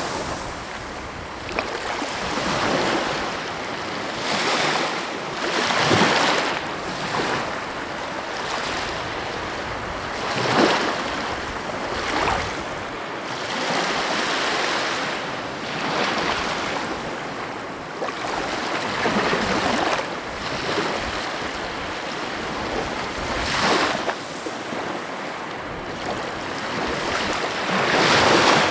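Sea waves breaking and washing on the shore, a continuous surf wash that swells every few seconds, with the strongest breakers about a quarter of the way in, about a third of the way in, and near the end.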